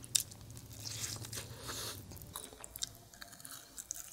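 Close-miked biting and chewing of Indian sweets: a sharp bite just after the start, then chewing with small crisp clicks and wet mouth sounds that fade toward the end.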